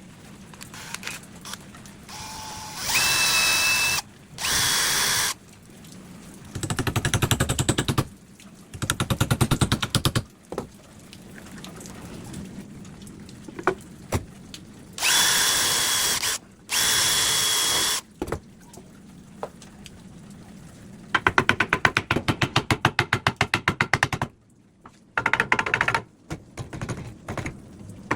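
Power drill running in a series of short bursts, some steady with a high whine and some with a fast, even pulsing, with pauses between them.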